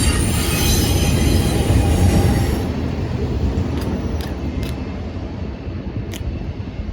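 High metallic squealing scrape as a boat's rotary-helm steering cable is pulled through its channel, stopping abruptly about two and a half seconds in. A low rumble runs underneath, and a few light clicks follow.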